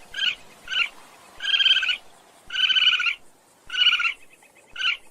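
An animal's short trilled calls repeated about once a second, each under half a second long and varying in length.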